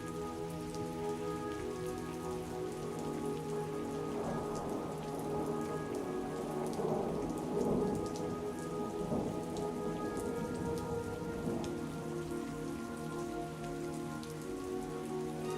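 Steady rain with scattered drop hits, over soft music of held notes. The rain swells louder around the middle.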